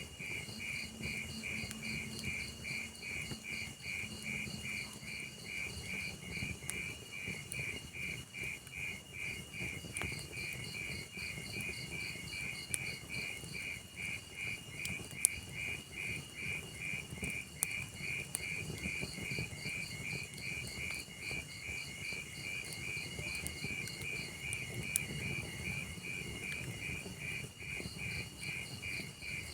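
Crickets chirping steadily, about three chirps a second, over the low crackle of a log fire, with a few sharp pops from the fire.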